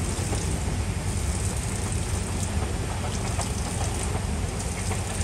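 Passenger train, a steady low rumble with a hiss of noise over it and a few faint ticks.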